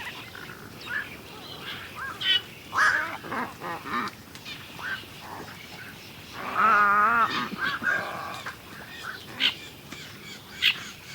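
Birds calling: short chirps and calls scattered throughout, with one loud, longer call of wavering pitch about six and a half seconds in.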